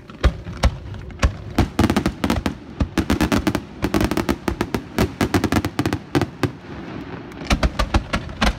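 Fireworks display: a rapid barrage of sharp bangs from bursting aerial shells, several a second. The bangs come thickest between about two and five seconds in, thin out, then pick up again in a quick cluster near the end.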